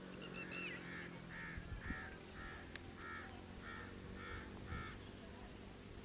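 A bird calling over and over: a quick run of high chirps at the start, then about eight short calls roughly half a second apart that stop near the end, over a faint low hum.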